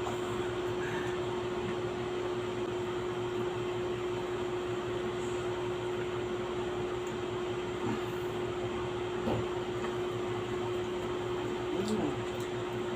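Steady hum and whir of a running machine, with one constant tone held throughout.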